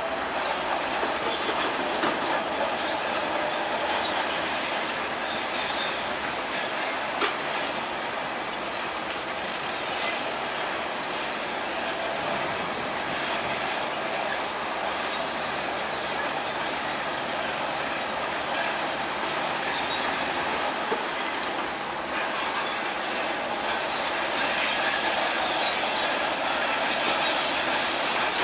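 Bulldozer at work, its engine running and steel crawler tracks moving: a steady mechanical din with one sharp knock about seven seconds in, growing a little louder near the end.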